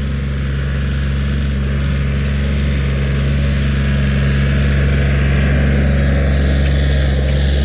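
Diesel engine of a Kioti 4010 compact tractor running steadily, getting somewhat louder a few seconds in.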